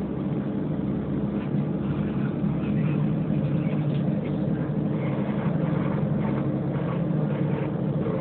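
A passenger ferry's engines running steadily while underway: a steady low hum made of several level tones, with a faint haze of water and wind noise above it.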